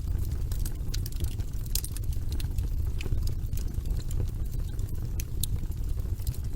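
Wood logs burning in a fireplace: frequent sharp crackles and pops over a steady low rumble of the flames.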